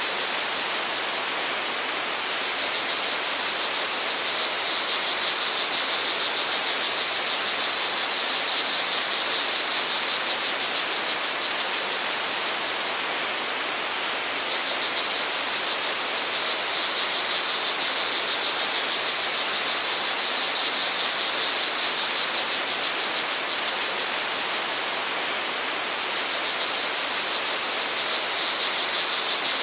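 Steady rush of a waterfall or stream, with crickets trilling in a fast pulsing high chirr that swells and fades in waves.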